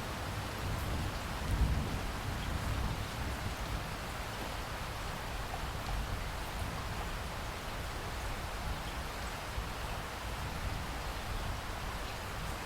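Steady rain falling in a rainforest, an even hiss of drops, with a brief low rumble about one and a half seconds in.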